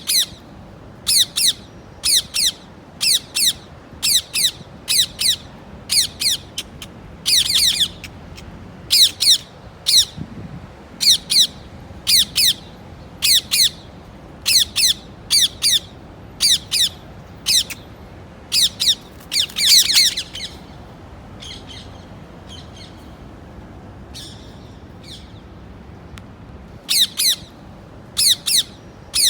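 A parrot squawking over and over in short, shrill calls, about two a second. After about twenty seconds the calls fall to a few faint ones for several seconds, then loud squawking starts again near the end.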